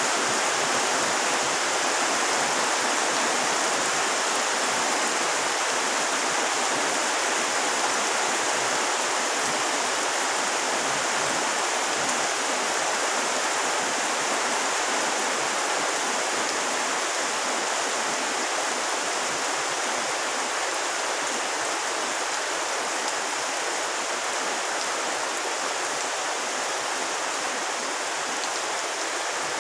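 Heavy rain falling on a pond and the plants around it: a steady, even hiss of countless drops.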